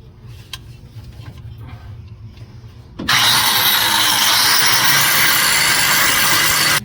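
MIG welder arc crackling, starting suddenly about three seconds in, holding steady and loud for nearly four seconds, then cutting off. A washer is being welded onto a broken flathead V8 head bolt to back it out.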